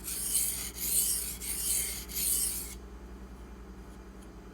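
Steel knife blade stroked across a Pride 600-grit waterstone: a gritty rasping scrape in about three strokes, stopping a little before three seconds in.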